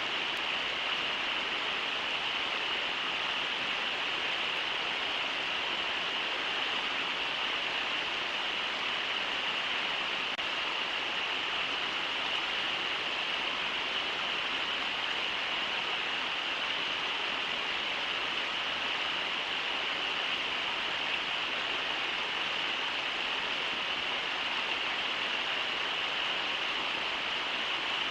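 Brooks River running over shallow rapids: a steady, unbroken rush of water.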